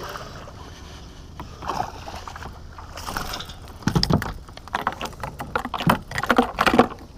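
Irregular knocks and rattles of gear being handled in a kayak, sparse at first and growing denser and louder after about four seconds.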